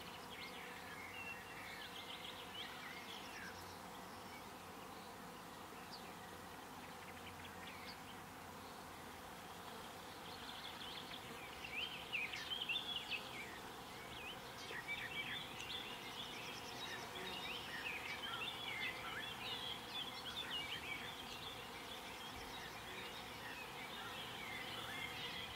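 Faint field ambience of insects, with many short, high chirping calls that become much busier from about halfway through.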